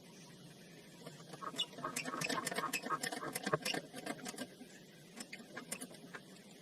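Quick clicking and rattling of hand tools and small metal parts being handled, in a busy burst of a few seconds followed by a few scattered clicks.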